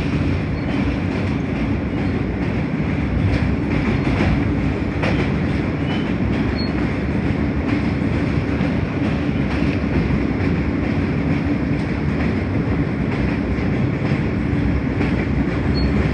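New York City subway train in motion, heard from inside the car: a steady rumble of wheels and motors on the track, with faint rail clicks.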